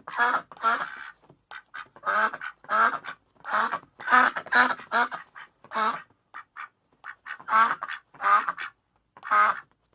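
Duck quacking over and over: loud, harsh quacks about every half second, with a lull of shorter, quieter calls around six to seven seconds in.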